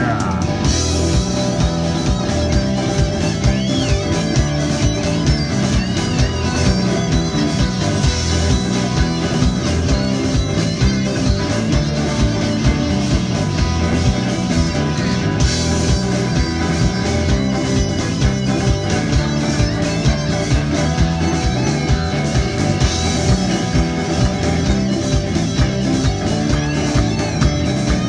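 Live band playing an instrumental break in a country-blues song: electric guitar over bass and drums, with a steady beat.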